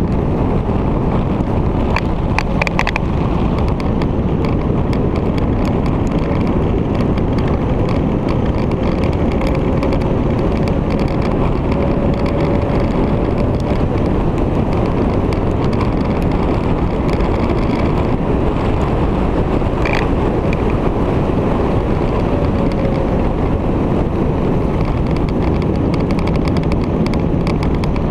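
Steady vehicle noise of a Victory motorcycle's V-twin engine running at speed, with heavy wind rushing over the microphone. A faint engine tone rises slowly in pitch about a third of the way in.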